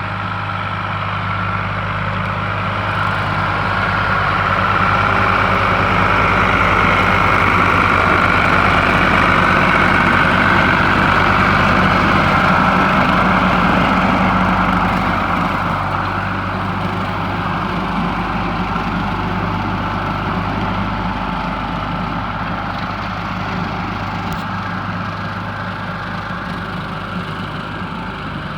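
Ford 4000 three-cylinder diesel tractor engine running steadily while driving a seven-foot brush hog; it grows louder a few seconds in and eases off again after about fifteen seconds.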